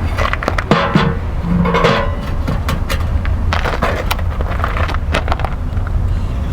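Firewood logs being loaded into a small steel wood stove: an irregular run of wooden knocks and clatter against metal. A steady low rumble runs underneath.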